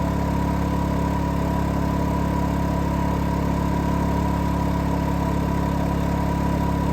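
Predator 2500 inverter generator running steadily just after starting, at normal speed with its economy throttle not yet engaged: a constant, even engine hum.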